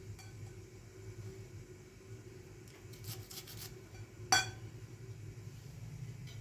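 A single sharp, ringing clink of kitchenware about four seconds in, with a few faint clicks shortly before it, over a steady low hum.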